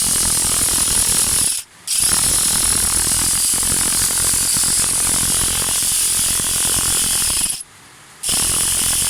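Electric motor of a sheep shearing machine, newly fitted, running at full speed with a loud steady whir and hiss. It is switched off and straight back on twice, briefly about a second and a half in and again near the end.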